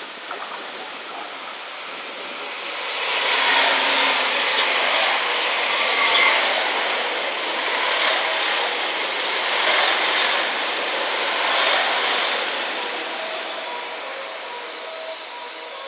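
A six-car HOT7000-series diesel multiple unit running past at speed. The rush of wheels and engines builds, then swells and eases as each car goes by, with two sharp clicks from the wheels early in the pass. The noise then dies down to a quieter stretch near the end, with a few faint steady tones.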